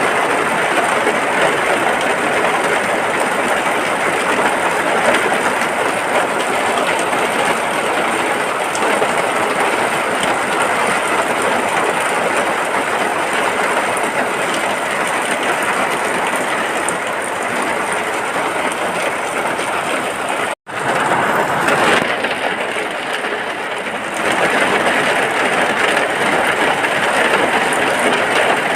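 Steady rain falling, a dense even hiss. It cuts out for an instant about twenty seconds in, then carries on, a little thinner for a couple of seconds before it fills back out.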